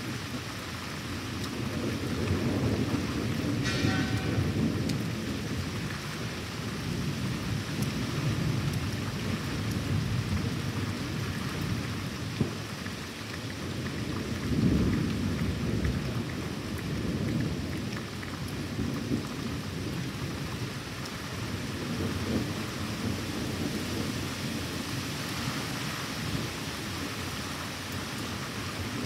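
Thunderstorm: steady rain pattering throughout, with low rolling thunder that swells and fades several times, loudest about halfway through.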